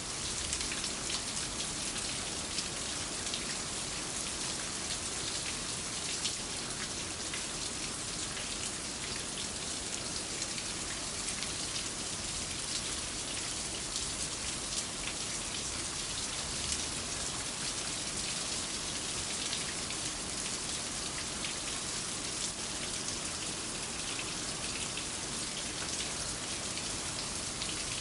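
Steady rain, with many separate drop hits over an even hiss.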